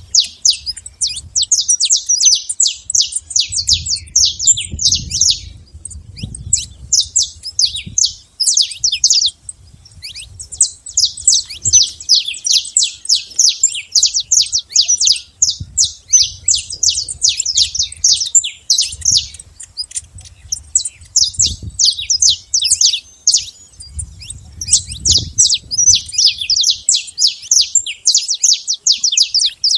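Saffron finch (canário-da-terra) singing a long, fast run of high chirps, with a short break about nine to ten seconds in, over a faint low rumble.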